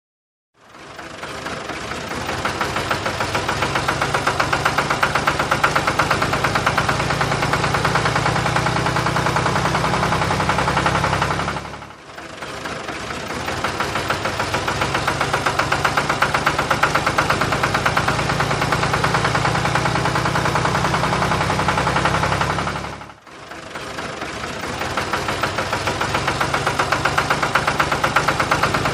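Tractor engine sound, a steady fast chugging run. It drops out and builds back up twice, about a third and two-thirds of the way through, like a repeating loop.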